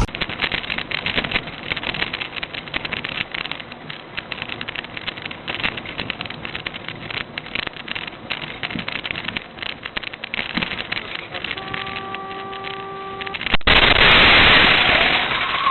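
Car interior dashcam sound of driving: dense crackling road and wind noise. About twelve seconds in, a car horn sounds steadily for about a second and a half, then the sound cuts abruptly to a louder rushing noise.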